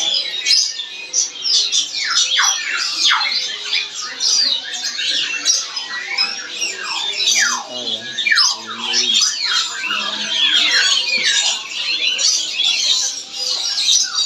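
Nuri (lory parrot) squawking and screeching without pause: rapid high chatter with many sharp calls that sweep steeply down in pitch.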